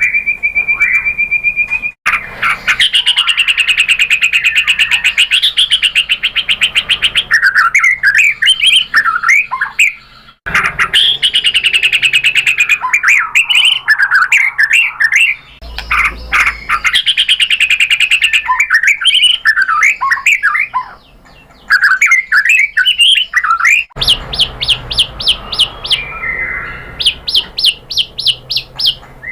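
White-rumped shama (murai batu) singing: a steady whistled note at first, then fast trills and rapid, varied whistled phrases. The song breaks off abruptly and starts again several times.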